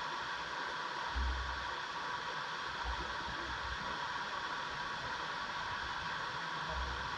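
A steady hiss of even noise with three short low rumbles: about a second in, about three seconds in, and near the end.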